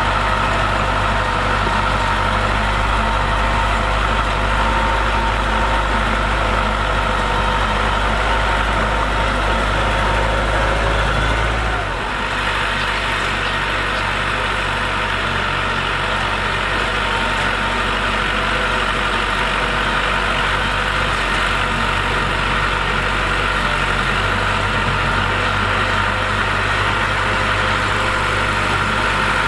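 Diesel engine of heavy earthmoving equipment running steadily with a deep rumble and a steady whine, the lowest rumble dropping away about twelve seconds in.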